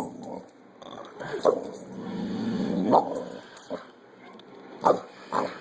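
Boxer puppy barking and yipping in rough play, a handful of short sharp barks spread a second or so apart.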